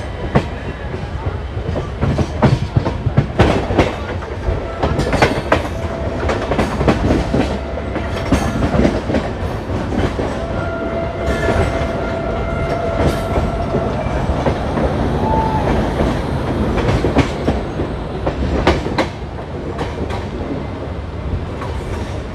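Passenger express train running at speed: a steady rumble with irregular clickety-clack of the wheels over rail joints, and a thin held tone for a few seconds around the middle.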